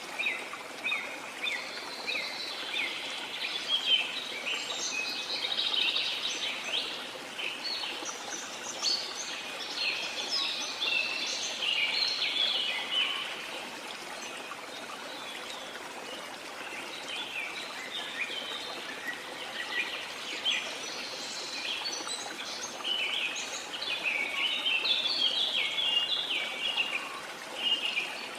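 Steady rush of falling water from a waterfall, with many birds chirping and calling over it; the chirping thins out about halfway through, then picks up again.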